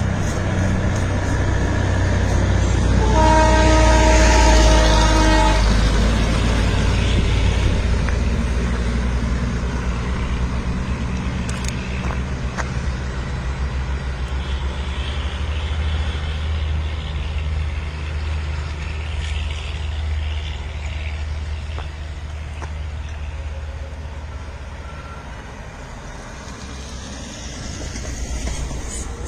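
Darjeeling Himalayan Railway train running with a steady low rumble, and one horn blast of about two and a half seconds a few seconds in.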